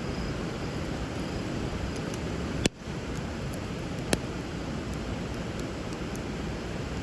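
Wood fire crackling over the steady rush of flowing river water, with two sharp pops about two and a half and four seconds in.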